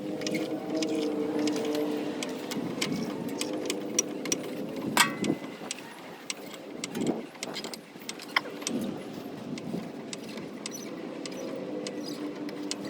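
Light metal clinks and clicks of tools and parts being handled, with one sharp, ringing metal clank about five seconds in, over a steady hum.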